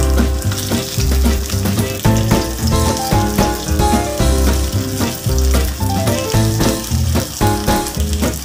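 Chicken fillets sizzling as they fry in a pan, under background music with a steady, repeating bass beat.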